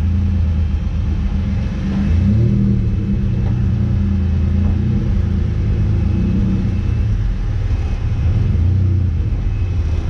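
Honda J35 3.5-litre V6 in a sand rail buggy idling steadily, running with its air intake not yet bolted on.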